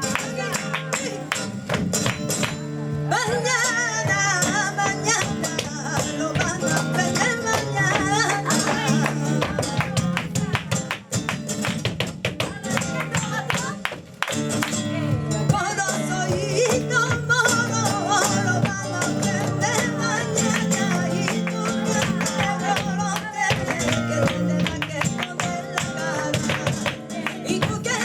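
Flamenco tangos: a cantaora sings wavering, ornamented lines over flamenco guitar, with sharp percussive strikes running throughout. The singing comes in about three seconds in, drops out around the middle and returns.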